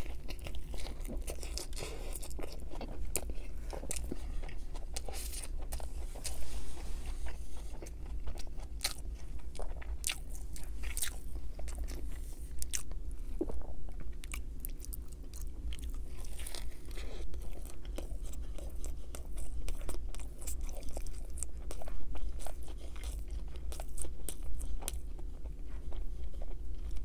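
Close-miked chewing and biting of an Angus bacon cheeseburger, with many sharp wet mouth clicks throughout.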